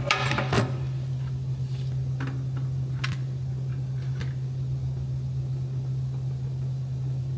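Metal clatter in the first half second, then a few separate clicks, as the last bolt comes out and the transmission valve body with its lead frame is lowered out of a Ford 6R80 automatic transmission. A steady low hum runs underneath.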